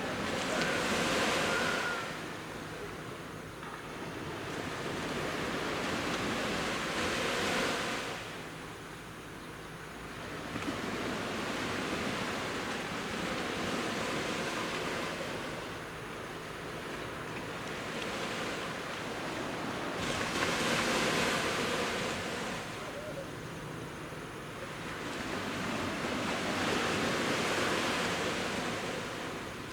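Sea waves breaking on a beach: a wash of surf that swells and fades every six seconds or so.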